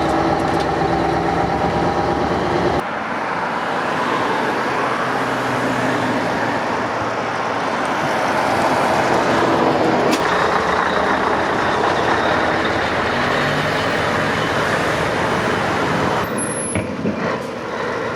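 Scania 143's V8 diesel engine running as the truck drives along, with steady engine drone and road noise. The sound changes abruptly about three seconds in and again around ten and sixteen seconds.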